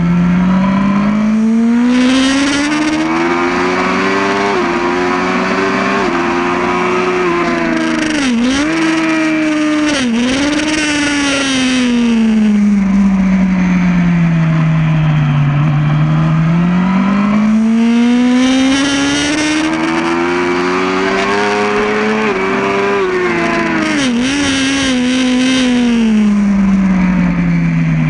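Yamaha R1 sportbike's inline-four engine at racing speed, heard from on board: the note climbs for several seconds as the bike accelerates, then falls away into a corner with short dips and jumps as the rider shifts down. The pattern happens twice.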